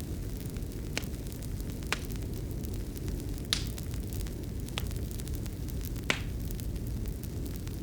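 Wood fire crackling: a steady low rush of burning with sharp pops every second or two, the loudest about three and a half and six seconds in.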